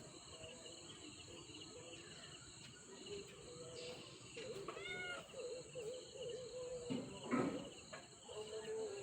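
Steady high-pitched chorus of crickets or other insects. From about halfway, a wavering pitched sound is heard over it, with one loud rough burst near the end.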